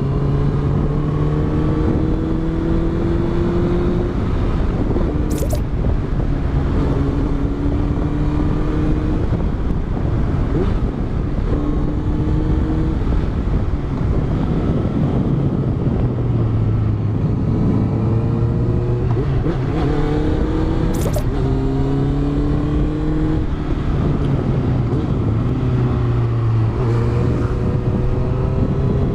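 Honda CBR650F's inline-four engine with a Yoshimura exhaust, heard onboard while riding: the engine note climbs and then drops back again and again with throttle and gear changes, over a steady rush of wind and road noise. Two short ticks come about five seconds in and again about twenty-one seconds in.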